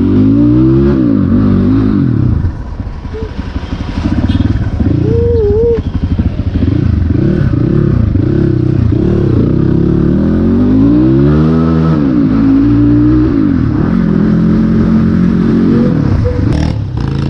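Dirt bike engine running under throttle while being ridden off-road, its pitch rising and falling again and again as it revs up and drops back.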